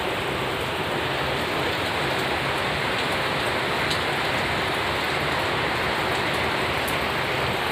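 Steady rain falling, an even hiss of many drops with a few faint separate ticks.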